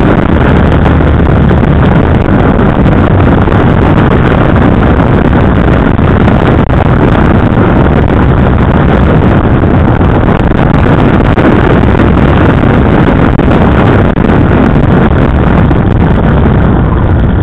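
KTM 990 Adventure's V-twin engine running steadily under way, heard from the bike itself with wind noise on the microphone; loud and even, with no sharp changes.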